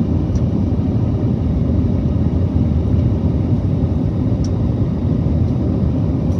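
Airbus A321neo airliner's engine and airflow noise heard from inside the cabin during the takeoff climb: a steady, loud, deep rumble.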